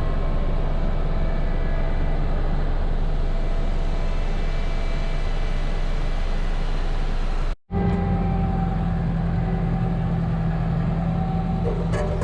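Heavy diesel farm machinery running steadily. Nearly eight seconds in, the sound cuts out briefly and a different engine tone comes in, with a stronger low hum.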